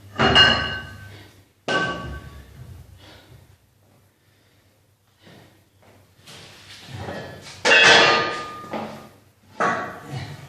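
Metal gym weights clanking: several separate knocks, each ringing briefly, as loaded weights are set down or knocked together.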